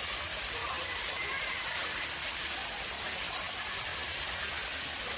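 Water running steadily into an artificial pond: an even, unbroken splashing.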